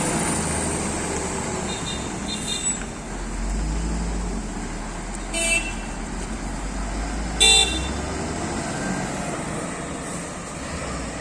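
Heavy truck traffic with engines running in a steady low rumble. Short horn toots sound several times, faint ones about two seconds in and two louder blasts about five and a half and seven and a half seconds in.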